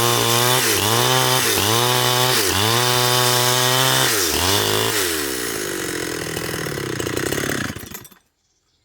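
Chainsaw engine running hard, its pitch dipping and recovering about once a second, then its revs fall away and it stops about eight seconds in.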